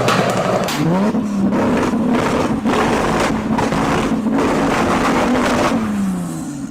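Supercar engine revving: the revs climb about a second in, are held high with small blips, then drop off near the end, with irregular sharp exhaust pops and crackles, the backfire of the exhaust.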